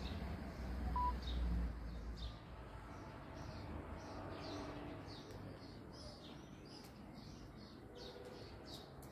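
Small birds chirping in short repeated calls, about two a second, from about three seconds in. A low rumble, the loudest sound, fills the first two seconds.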